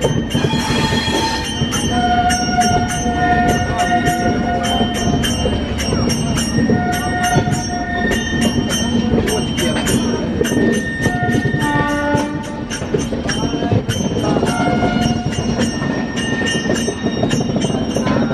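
Passenger train running on the rails as it comes into a station, heard from onboard, mixed with music: held notes that change pitch every second or two over a steady run of clicks.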